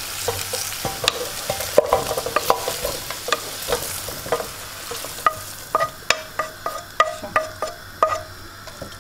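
Fried lamb and chestnuts sizzling as a wooden spatula scrapes them out of a hot frying pan into a metal pot. The sizzle fades after about five seconds, leaving a run of knocks and taps of spatula and pan against the pot, each ringing briefly.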